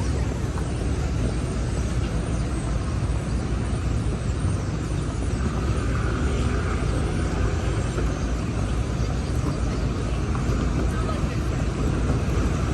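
City street traffic: a steady low rumble of vehicle engines and tyres.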